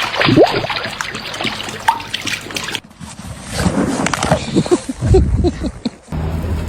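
Water splashing and sloshing, mixed with short rising and falling voice sounds. The sound cuts off abruptly twice, about three seconds in and near the end.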